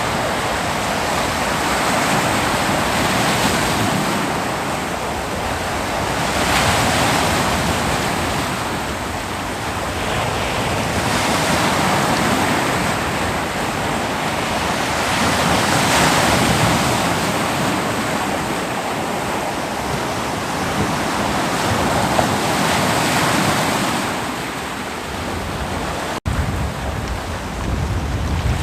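Ocean waves washing onto a beach: a continuous surf noise that swells and ebbs every few seconds. A sudden momentary break in the sound comes near the end.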